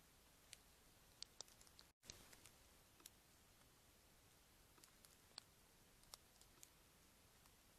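Near silence with faint, irregular clicks and ticks scattered through it, and a brief dead-silent gap about two seconds in.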